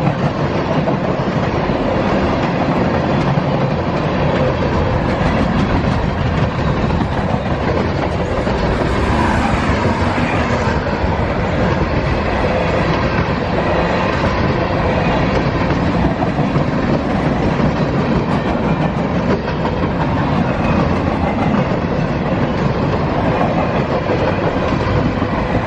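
Freight train rolling past at close range: a loud, steady rumble and rattle of cars and wheels on the rails, unbroken throughout.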